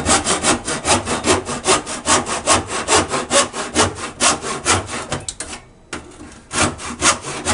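Hand saw cutting through a drain pipe with quick, even back-and-forth strokes, about four or five a second, pausing briefly about six seconds in and then resuming.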